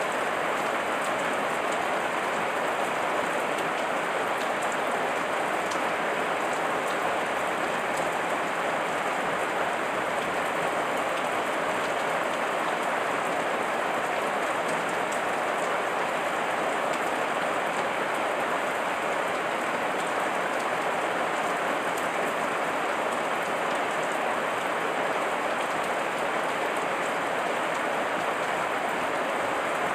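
Heavy rain falling steadily, an even hiss of rain on surfaces with fine drop patter.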